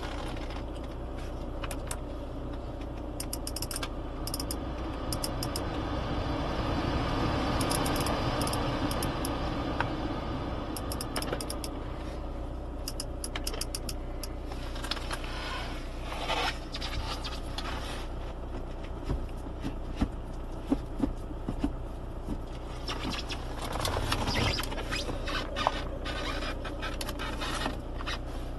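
Steady low hum in a car, with scattered clicks and scraping from handling around the car, and a swell of noise twice.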